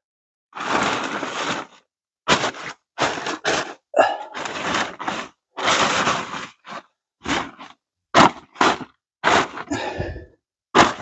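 A tablecloth being handled and spread over a stack of firewood: a series of irregular rustling, scraping noises, about a dozen in all, with short pauses between them.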